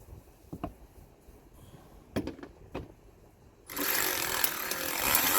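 A few light tool clicks and knocks, then about three and a half seconds in a power driver starts up and runs steadily, spinning an 8 mm socket to undo the bolts of the car's under panel.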